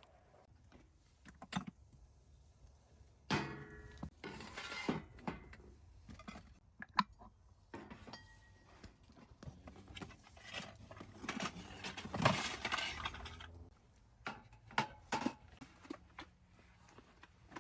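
Cookware and utensils being handled: irregular clinks, knocks and clatters, some ringing briefly, with busier clattering in the middle.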